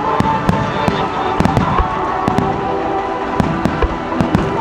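Fireworks going off in a rapid, irregular string of sharp bangs and crackles, with music playing underneath them.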